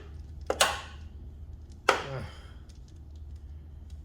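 Sharp knocks and clanks from fitting a new fuel hose onto its fitting by hand: one pair about half a second in and a louder one near two seconds in, each ringing briefly, over a steady low hum.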